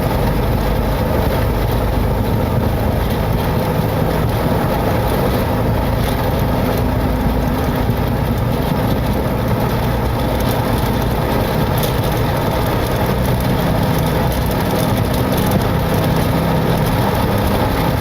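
Boeing 727-200's three Pratt & Whitney JT8D turbofans at takeoff thrust, heard from inside the cockpit during the takeoff roll: a steady, loud mix of engine noise, rushing air and low rumble from the runway.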